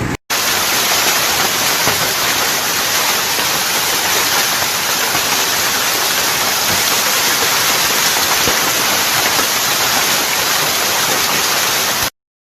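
Hailstorm: hail and rain pelting down in a dense, steady hiss that cuts off abruptly near the end.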